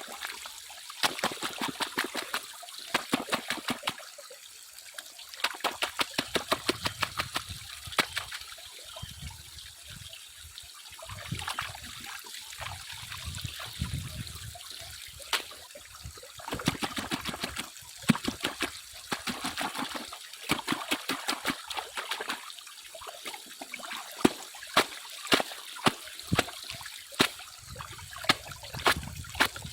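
Water sloshing and trickling, with runs of rapid sharp clicks and rattles throughout, as of stones and gravel knocking about in water during hand panning for gold.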